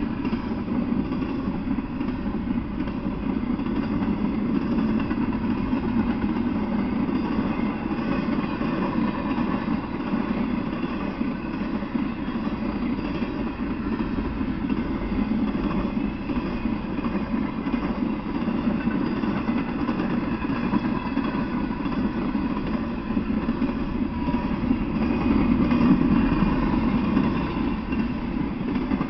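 Intermodal freight train of double-stack container cars rolling steadily past: a continuous rumble of wheels on rails, swelling a little near the end.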